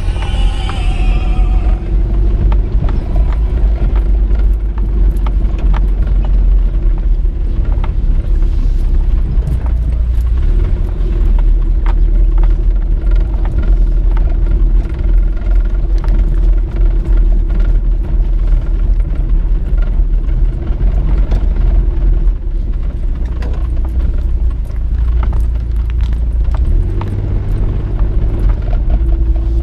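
A motor vehicle travelling over a rough road, with a steady motor hum over heavy low rumble and frequent small rattles and knocks. A brief high chirping sound comes in the first two seconds.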